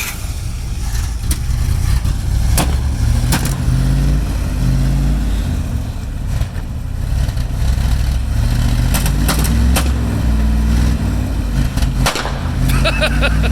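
1956 Dodge tow truck engine running under load, its pitch rising and falling as it is revved, likely while climbing a steep ramp. A few sharp knocks sound over it.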